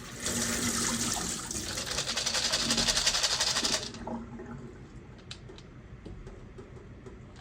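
Tap water running onto sunflower seed sprouts as they are rinsed, shutting off suddenly about four seconds in. A few faint light clicks follow.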